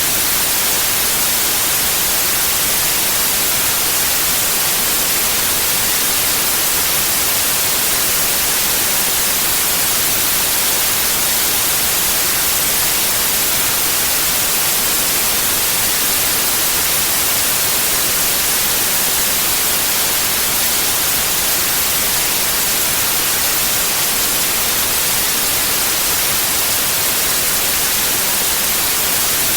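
White noise: a loud, steady, even hiss with no change or events, strongest in the high frequencies.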